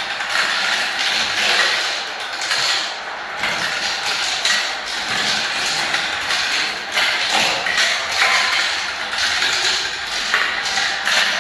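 Many small balls rolling and clattering down a spiral marble-run ramp: a continuous dense rattle of fast light clicks with gentle surges in loudness.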